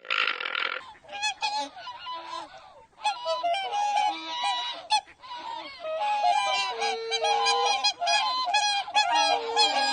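A flock of birds calling at once, many short calls overlapping one another, after a brief burst of noise at the very start.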